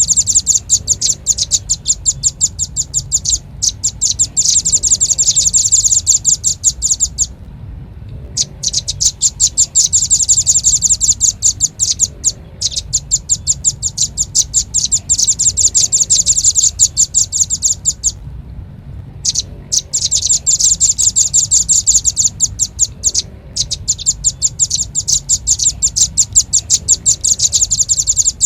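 Velvet-fronted nuthatch (rambatan paruh merah) lure call: rapid, high chipping notes, about ten a second, in long runs several seconds long with short pauses between them.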